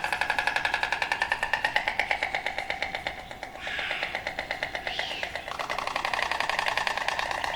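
An animal's rapidly pulsing, buzzing call, about ten pulses a second, held almost without a break and dipping briefly about three seconds in.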